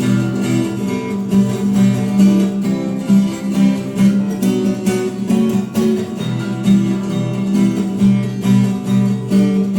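Acoustic guitar strummed in a steady rhythm, playing the instrumental break between verses.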